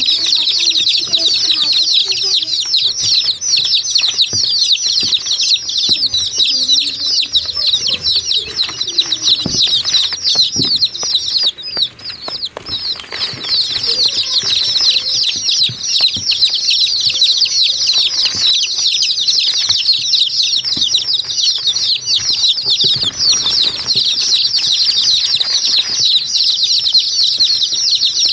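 A large flock of small birds chirping all at once in a dense, unbroken chorus of rapid high chirps, easing for a moment about twelve seconds in, with a few lower calls underneath.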